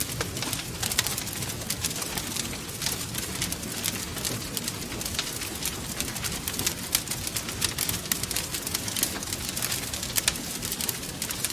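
Wood fire crackling steadily, with frequent sharp snaps over a low rumble of flames.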